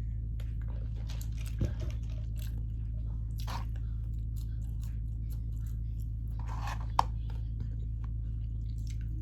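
A person chewing and biting food close to the microphone: scattered small wet clicks and crackles, with a thump about a second and a half in and a sharp click near seven seconds, over a steady low hum.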